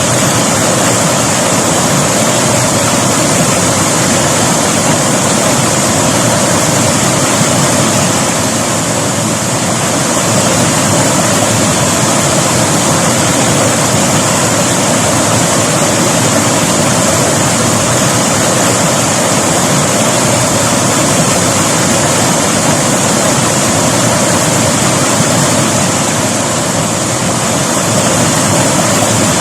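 River water rushing over rocks: a loud, steady rush of flowing water, with slight dips in loudness a little before halfway and near the end.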